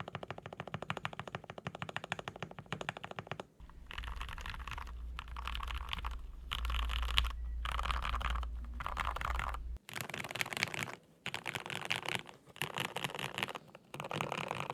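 Modded Keychron K8 mechanical keyboard with lubed Gateron Yellow linear switches being typed on fast. A quick, even run of separate keystrokes, then about three and a half seconds in the strokes blur into dense runs of clatter broken by short pauses.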